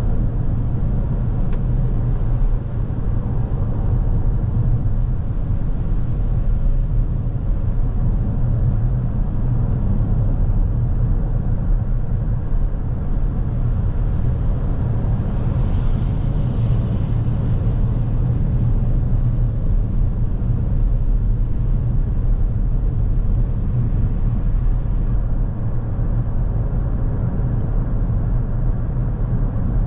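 Steady low road and tyre rumble of a Lexus NX350h hybrid SUV on the move, heard from inside the cabin, with a brief swell of hiss about halfway through.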